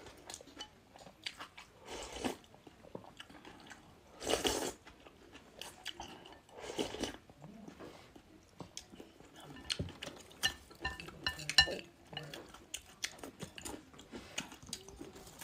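Close-miked eating: a person biting and chewing food, with many short crunches and clicks, and a few louder rushing noises, the loudest about four and a half seconds in.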